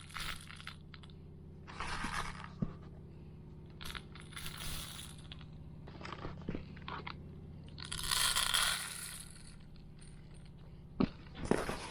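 Intermittent crunching and scraping handling noises, five or six short bursts with the longest about eight seconds in, over a steady low hum.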